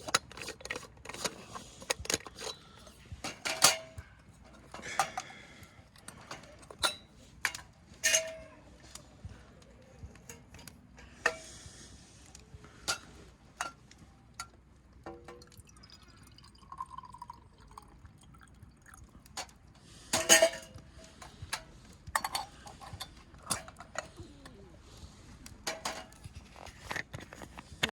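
Metal cookware and utensils clinking and knocking at irregular intervals, some strikes ringing briefly, with short spells of liquid being poured or stirred.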